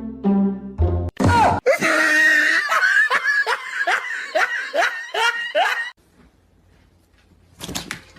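A person laughing hard in a rapid run of high cries, each falling in pitch, cutting off about six seconds in. The end of a piece of background music is heard in the first second.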